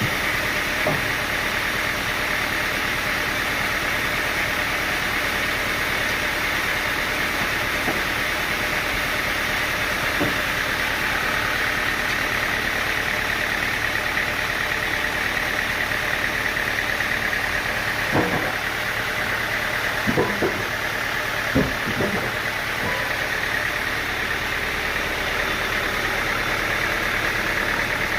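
Sawmill machinery engine running steadily, with a few short knocks, several of them close together about two-thirds of the way through.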